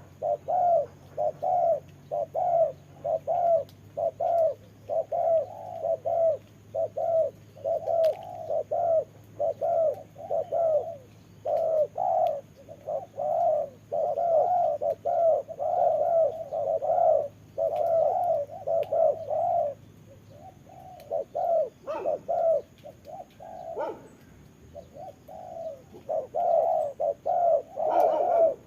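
Spotted doves cooing in a fast, steady run of short coos, a few each second, with a couple of brief pauses near the end.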